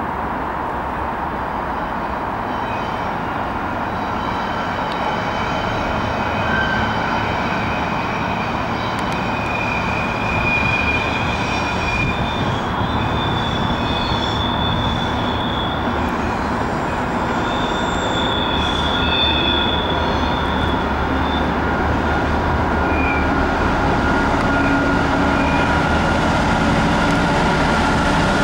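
An Irish Rail 201 Class diesel locomotive and its Enterprise coaches running across a concrete railway bridge: a steady rumble of engine and wheels that slowly grows louder, with high-pitched wheel squeal through the middle.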